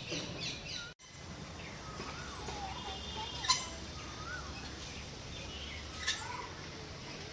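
Several birds chirping and calling over steady outdoor background noise, with wavering whistled notes among quick high chirps. The sound drops out for an instant about a second in, and two short sharp sounds stand out, one about halfway and one near the end.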